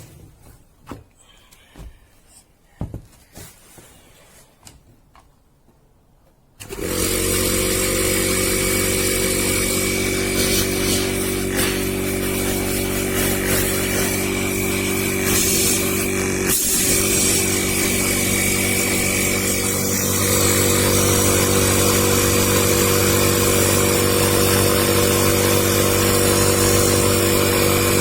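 Repaired FH 142 refrigerator compressor, being test-run dry without oil, switches on about seven seconds in after a few light clicks of handling. It then runs with a loud, steady hum and a harsh mechanical noise on top.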